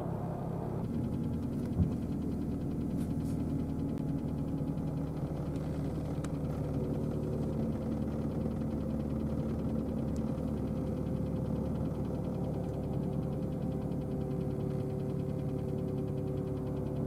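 Motor vehicle engine idling steadily: a low hum with a few steady tones, and one short sharp knock about two seconds in.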